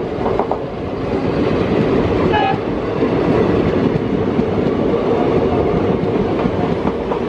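Moving passenger train heard from on board: a steady rumble of the coaches' wheels running on the track. A brief horn toot sounds about two and a half seconds in.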